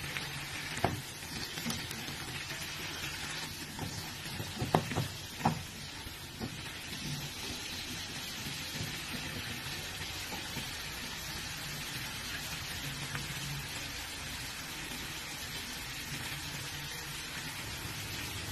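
Tofu, broccoli and bell peppers sizzling steadily in a hot nonstick wok as they are stir-fried. A spatula clacks against the pan a few times in the first six seconds.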